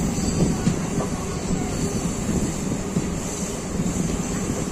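Indian passenger train running along a curve, heard from an open coach doorway: a steady rumble of wheels on the rails.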